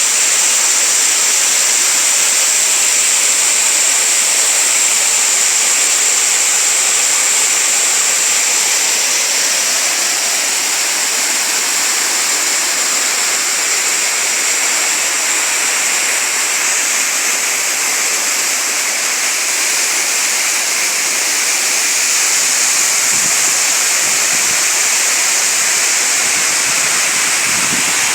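Waterfall: water falling and rushing in a steady, loud hiss, its tone shifting slightly about halfway through.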